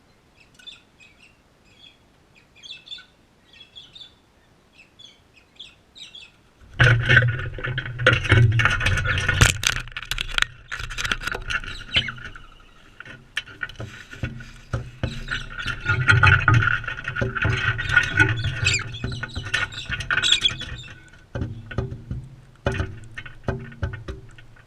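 Crimson rosellas calling close to the microphone: faint short chirps at first, then, from about seven seconds in, loud squealing and chattering mixed with sharp clicks and clatter.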